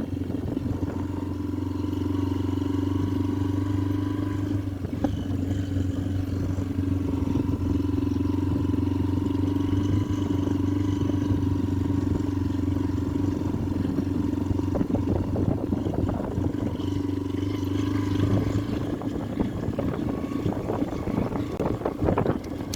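Motorcycle engine running at a steady pace while riding. Its low, even tone falls away near the end.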